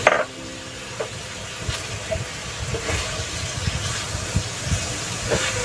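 Chicken and chayote sizzling in a stainless steel wok, with scattered clacks and scrapes of a spatula stirring them. A short loud burst comes right at the start.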